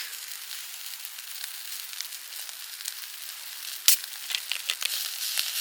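Food sizzling over high heat: a steady hiss with scattered crackling pops, and one sharp pop about four seconds in.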